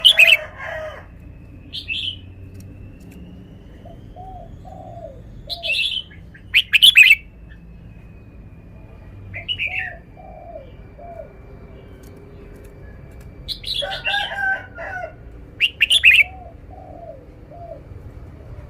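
Red-whiskered bulbul singing short, loud, sharp phrases about seven times with pauses between them, including a longer, rougher burst near the start and another about two-thirds of the way through. Low, repeated, softer notes in small groups run in the background between the phrases.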